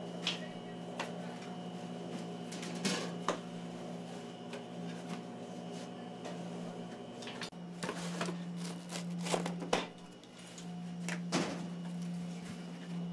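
A steady low machine hum with scattered sharp clicks and knocks, like cupboard doors, drawers and utensils being handled in a small kitchen space. The hum's tone shifts about halfway through, and the knocks come thickest shortly after.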